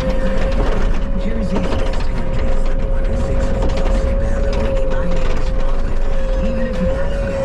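Bobcat skid steer running under work, a steady engine rumble with a constant whine over it and a continuous clatter of metal rattles and clanks.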